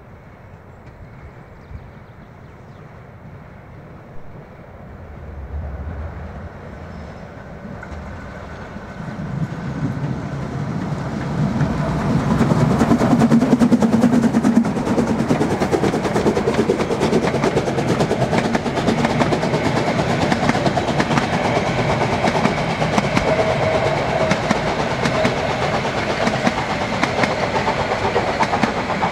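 Harz narrow-gauge steam locomotive working hard uphill on the Brocken line, its exhaust beats sharp and rapid. Faint at first, it grows louder over the first dozen seconds as it approaches and then stays loud.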